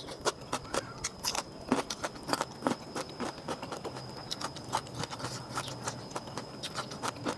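Close-up eating sounds: a string of irregular sharp clicks and smacks from chewing and handling food.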